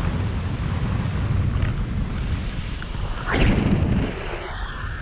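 Wind buffeting the microphone during a tandem paraglider flight: a steady low rumble, with a louder gust a little past the middle.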